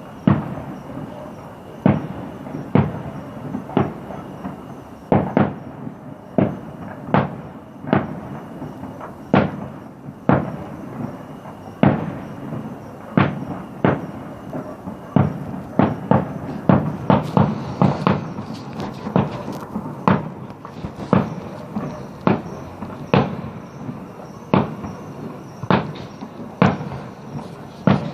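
Fireworks display: aerial shells bursting one after another, mostly about a bang a second, with a quicker flurry of bangs in the middle.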